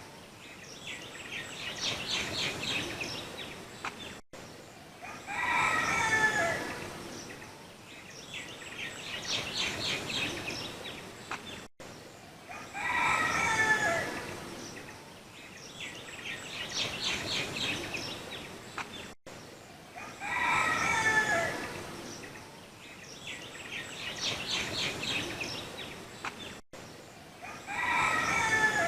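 Rooster crowing four times, each crow followed a few seconds later by a fast trilling bird call, repeating evenly about every seven and a half seconds as a looped recording.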